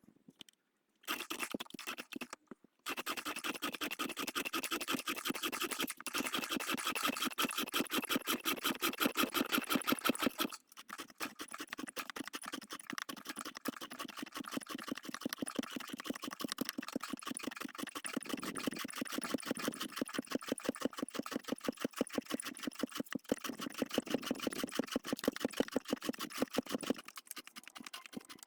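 A turning tool scraping wood on a spinning workpiece on a homemade wooden lathe, a continuous scrape with a rapid, even ticking rhythm. It stops briefly twice, then carries on.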